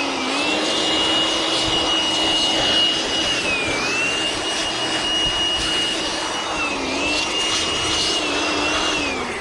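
Battery-powered electric motor running at a steady high speed. Its pitch sags briefly twice, as if under load, and starts to wind down near the end.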